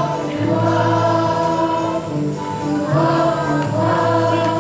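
Musical number: a chorus of voices singing held notes with musical accompaniment.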